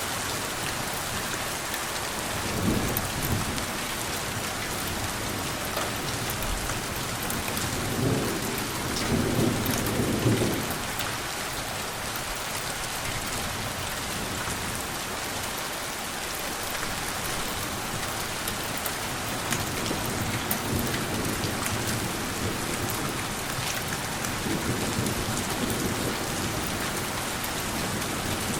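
Steady rain falling, with soft rolls of distant thunder rumbling up several times, the strongest a few seconds in and again about a third of the way through.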